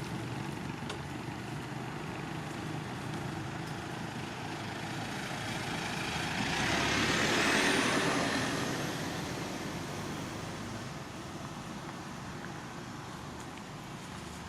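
A road vehicle passing by over steady background noise. Its sound swells to the loudest point about halfway through, then fades away. A faint high whine rises in pitch as it passes.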